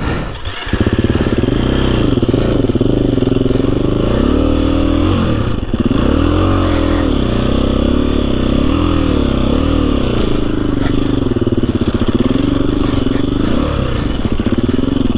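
KTM 350 EXC-F dirt bike's single-cylinder four-stroke engine running hard, its revs rising and falling over and over from about a second in, as the bike works through deep snow.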